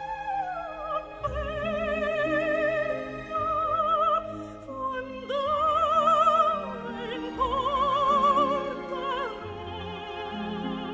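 Operatic high voice singing a sustained melody with a wide vibrato over orchestral accompaniment, its held notes swelling and gliding between pitches.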